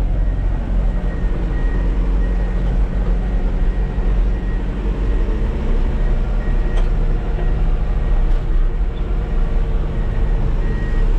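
Heavy diesel engine running steadily at a low, even speed, close by.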